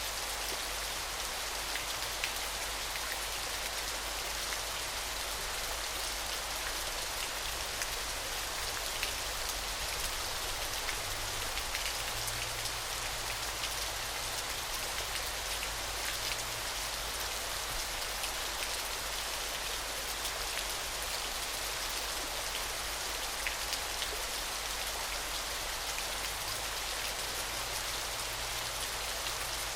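Falling water: a steady hiss of water with scattered small splashing ticks.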